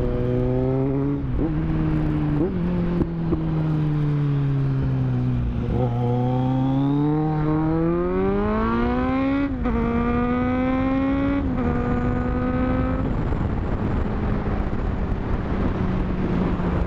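Kawasaki Z900's inline-four engine under way, heard from on the bike over wind noise. Revs fall for the first five seconds with two quick jumps up in pitch, as if downshifting. It then accelerates through two upshifts, each a sharp drop in pitch, and settles into a steady cruise.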